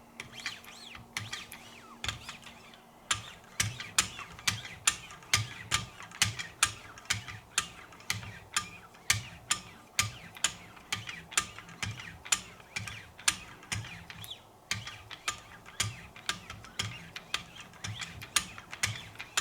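Wicked Edge sharpening system: 0.5 micron lapping-film paddles stroked along a knife's edge, alternating sides, for final polishing. The strokes make a steady run of sharp ticks, about two a second, getting louder about three seconds in.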